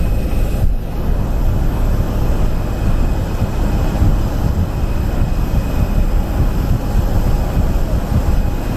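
Loud, steady low rumble of vehicle or aircraft machinery, with no distinct events.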